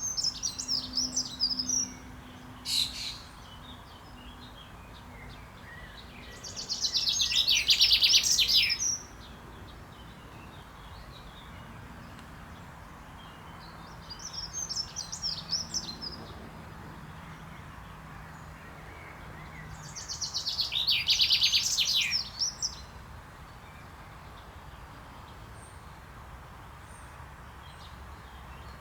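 Male common chaffinch singing its spring courtship song: two loud song phrases, each a rapid run of repeated notes lasting about two and a half seconds, about twelve seconds apart. Fainter bird song comes between them.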